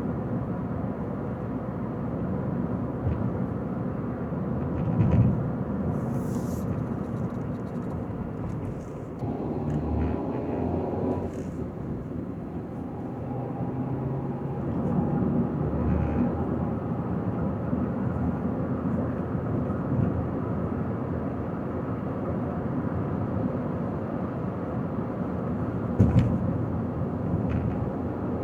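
Steady noise of a car being driven, engine and tyres on the road. There is a short pitched hum about ten seconds in, and sharp thumps, loudest about five seconds in and near the end.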